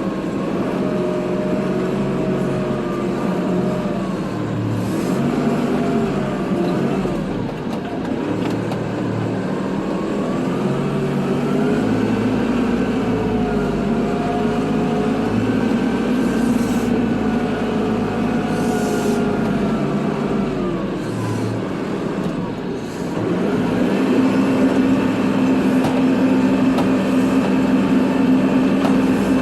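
Kubota tractor's diesel engine running while plowing snow, its speed drifting up and down with the load. Near the end it dips briefly, then holds a steady higher speed.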